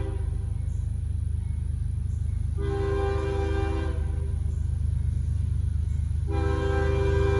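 Freight locomotive air horn blowing a chord of several tones in blasts, over the steady low rumble of the passing train: one blast cuts off just after the start, a second sounds for about a second and a half, and another starts near the end.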